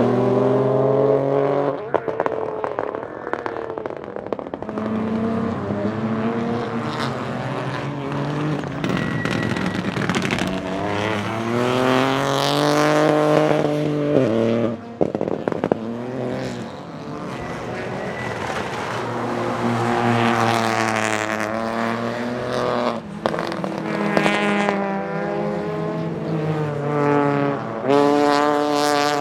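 Peugeot 208 Rally4's 1.2-litre turbocharged three-cylinder engine pulling hard through the gears. Its pitch climbs several times and drops sharply at each shift, with crackles at the breaks.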